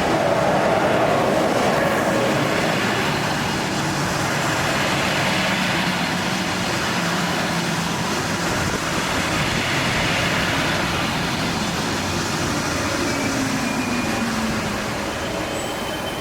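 Train hauled by an SJ Rc6 electric locomotive running on the rails, a steady rolling rumble with a tone that slowly falls near the end.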